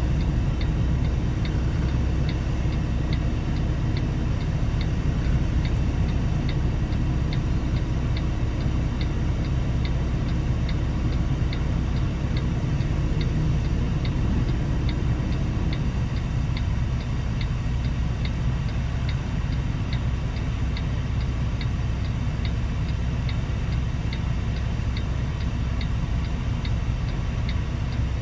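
Semi truck's diesel engine running with a steady low rumble, with a light regular ticking of about two ticks a second over it.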